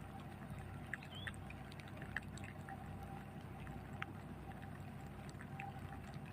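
Boat engine running steadily with a low, even hum, with a few faint clicks and short chirps over it.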